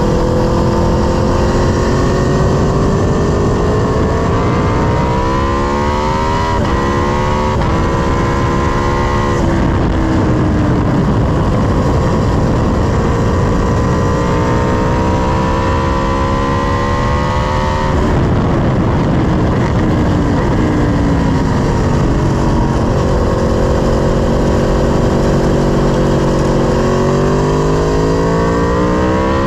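Sport motorcycle engine at hard throttle on a racetrack, its pitch climbing and then stepping down at quick upshifts. Revs fall away about two-thirds through and climb again near the end. Heavy wind rush runs under it.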